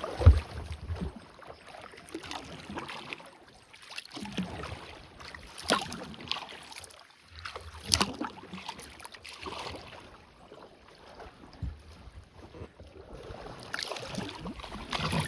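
Kayak paddle strokes in calm water: the blades dipping and pulling through with soft, irregular splashes every second or two.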